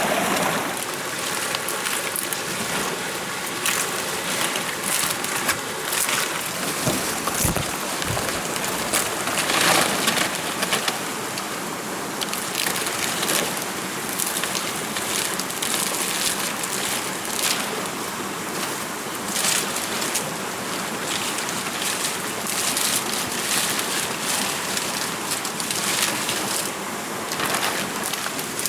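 Steady rushing water noise, with irregular sharp taps and crackles scattered through it.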